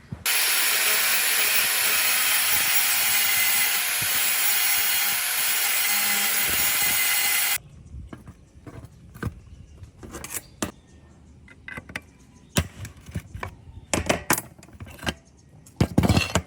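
A handheld power tool runs at a steady speed for about seven seconds, then cuts off suddenly. Scattered clicks and knocks follow as parts are handled.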